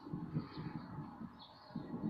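Birds chirping: short high chirps come every half second or so, over uneven low-pitched sound.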